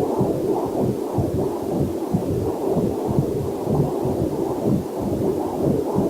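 Fetal Doppler heart monitor playing a rapid, even whooshing heartbeat, with a faint waterfall hiss mixed in underneath.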